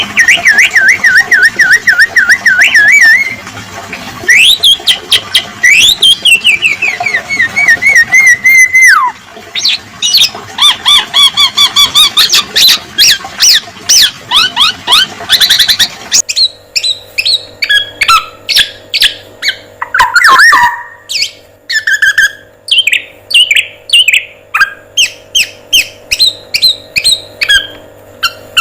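Recorded songbird song: varied whistled, warbling and gliding phrases. About sixteen seconds in, the recording switches abruptly to a fast series of short chirps over a faint steady hum.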